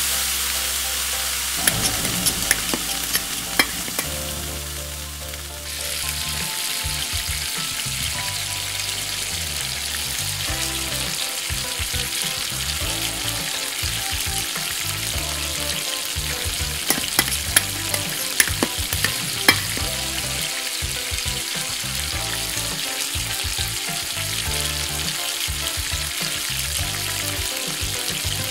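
Octopus stir-frying in a tiny frying pan: a steady sizzle with scattered clicks of the utensil against the pan as it is stirred. The sizzle gets louder about six seconds in.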